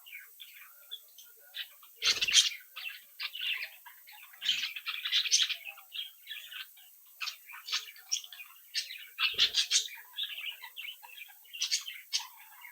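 A flock of budgerigars chirping and warbling continuously in many overlapping short calls. Two brief knocks sound about 2 and 9.5 seconds in.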